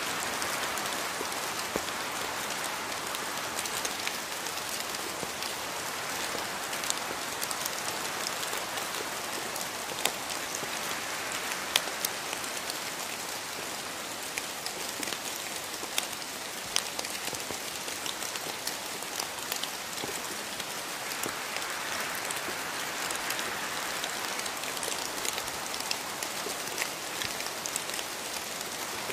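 Steady rainfall on foliage in a rainforest, with a constant hiss and scattered close drops landing as sharp ticks.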